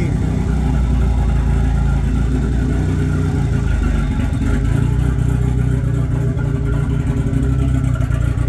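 Mitsubishi 4G63 turbocharged four-cylinder in a Mirage Evo 3 conversion idling steadily, warming up after a cold start following three months of storage.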